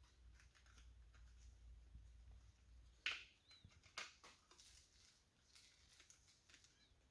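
Faint handling noises, soft clicks and rustles, as a rubber gasket is worked onto a car door handle, with two sharper clicks about three and four seconds in.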